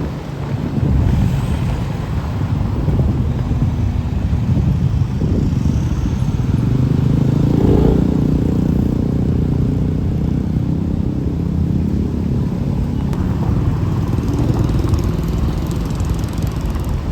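Road traffic passing close by: vehicle engines running loud and low, swelling about a second in and holding steady.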